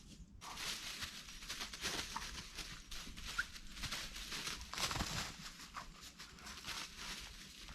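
Footsteps crunching through snow: a string of irregular crunches.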